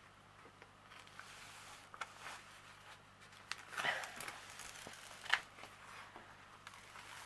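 Faint rustling and crinkling of a diamond painting canvas and its cover sheet being handled and peeled back, with two short, sharper crackles about four and five seconds in.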